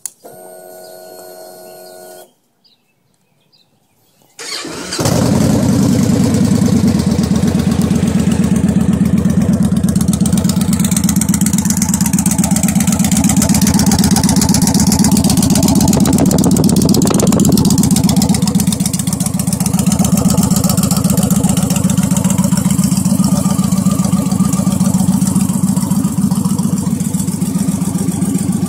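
A steady whine for about two seconds, then a short pause, then the Victory Vegas V-twin fires up through Hacker Ripper aftermarket pipes and settles into a loud, steady, pulsing idle.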